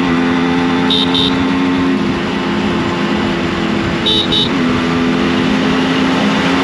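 Yamaha RX100's two-stroke single-cylinder engine running under way on its stock exhaust. Its note drops sharply twice, at the start and about four and a half seconds in, holding steady between. Two short double beeps sound about a second in and again about four seconds in.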